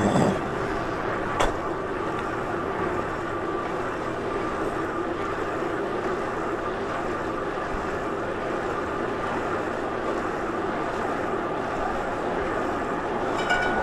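A bike in motion, giving a steady running noise with a faint steady whine. There is a single sharp click about a second and a half in.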